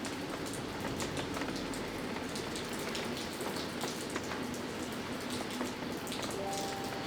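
Steady typhoon rain falling, with many separate drops ticking irregularly over the constant hiss.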